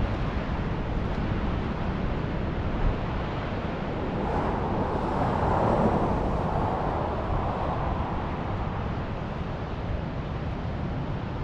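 Steady wind rush and engine and road noise from a motorcycle riding at speed. A louder swell of noise rises and fades about halfway through.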